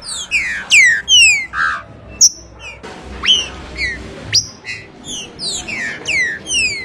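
Green-winged saltator (trinca-ferro) singing: a rapid, loud run of clear whistled notes, most sliding down in pitch, mixed with a few quick upward-flicking notes.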